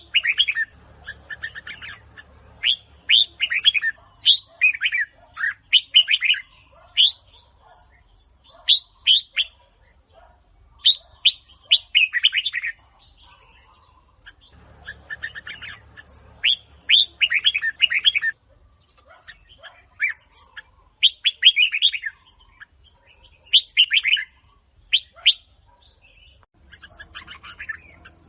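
Red-whiskered bulbul (chào mào) singing: repeated short phrases of quick, sharp whistled notes, each phrase a second or two long, with brief pauses between them.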